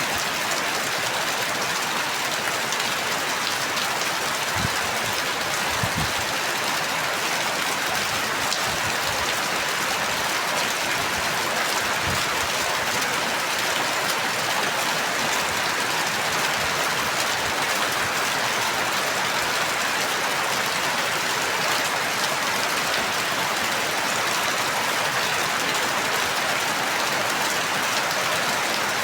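Steady rain falling on a surface, an even hiss with a few faint low thuds a few seconds in.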